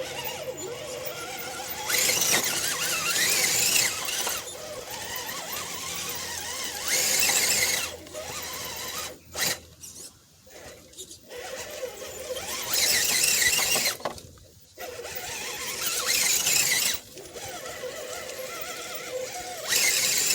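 Redcat Gen7 RC rock crawler's electric motor and drivetrain whining under load as it climbs a muddy rock section, in about five louder bursts of throttle with a steady whine between.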